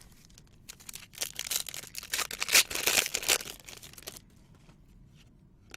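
Trading-card pack wrapper being torn open and crinkled, a dense crackling that builds to its loudest about two and a half seconds in and stops about four seconds in.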